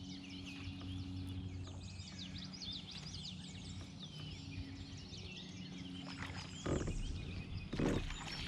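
Songbirds chirping and singing over a creek, many short rising and falling calls overlapping. Two short splashes come near the end.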